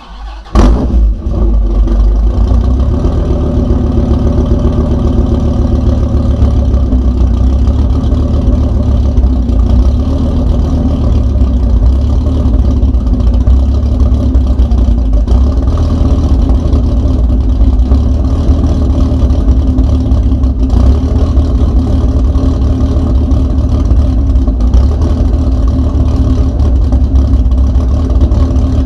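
An engine being started for the first time: it cranks briefly, catches within about a second, then runs on steadily at a loud, even idle.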